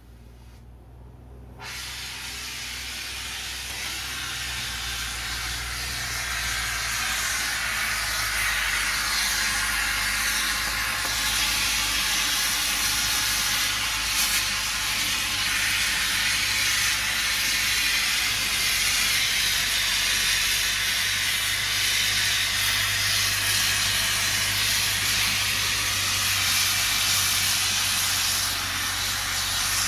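Gas burner flame hissing steadily, heating for a Babbitt bearing pour. It comes on suddenly about two seconds in and grows louder over the next several seconds before holding level.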